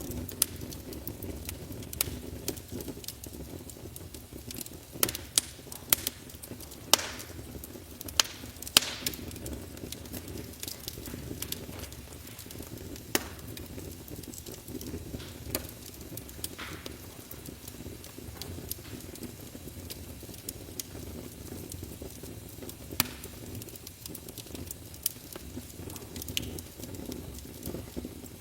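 Fire burning in a fireplace: a steady low rush of flames with irregular sharp crackles and pops, most frequent a quarter of the way in.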